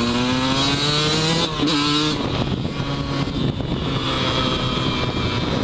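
Yamaha YZ125 two-stroke dirt bike engine heard on board, revving up with a rising pitch for about two seconds. The pitch then drops and the engine runs steadier at lower revs.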